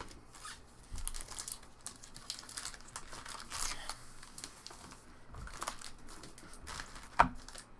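Trading-card pack wrappers crinkling and cards being handled and shuffled, in irregular crackly bursts. A single sharp tap about seven seconds in is the loudest sound.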